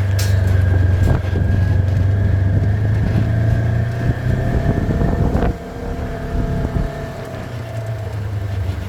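A vehicle's engine running steadily at idle. There is a knock about five and a half seconds in, after which it sounds quieter.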